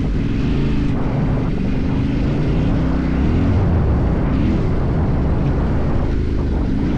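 Motorcycle engine running under changing throttle while ridden off-road, its pitch rising and falling several times, with steady wind and road noise over it.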